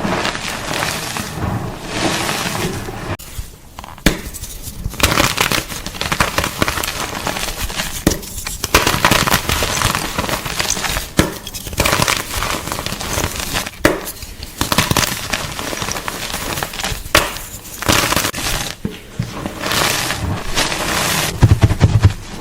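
Gym chalk (magnesium carbonate) crunching and crumbling in a dense, loud crackle, with short pauses every few seconds.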